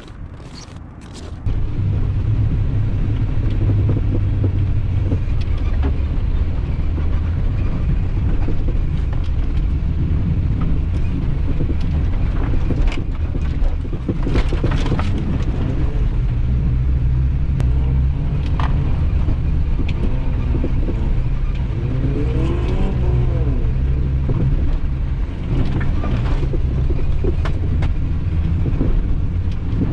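A car engine comes to life about a second and a half in and keeps running with a steady low rumble. The engine revs up and down a few times, around two thirds of the way through.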